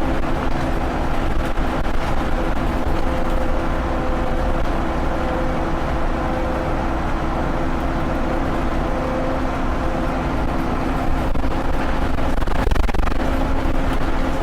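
Scania OmniLink single-deck bus running, a steady engine and road drone with a few held whining tones that fade about ten seconds in and return near the end.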